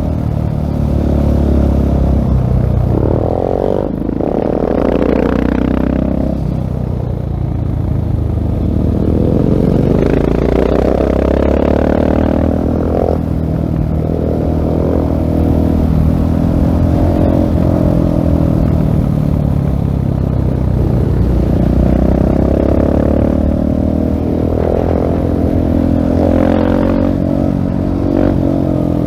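Husqvarna 701 Supermoto's single-cylinder engine through a LeoVince full-system exhaust, under way. The engine pitch climbs and drops repeatedly as the bike accelerates, changes gear and backs off the throttle.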